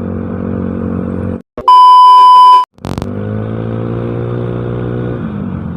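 Yamaha Mio Smile scooter's single-cylinder engine idling steadily through a cheap aftermarket exhaust. About a second and a half in, the engine sound cuts out and a loud, steady electronic beep lasting about a second takes over, followed by a sharp click, before the idle comes back.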